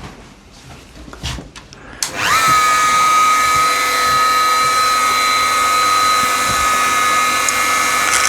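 Dremel rotary tool fitted with a small fine grinding-stone bit, switched on about two seconds in after a few light handling knocks, spinning up quickly to a steady high whine.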